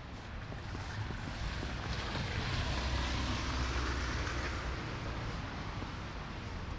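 A motor vehicle passing on a snow-covered city street: tyre hiss and a low engine rumble swell about two seconds in, peak around the middle, and fade away.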